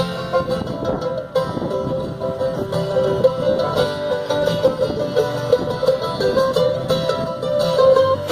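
A band playing an instrumental break of the song, with no singing: a quick, steady run of picked string notes over a fuller backing.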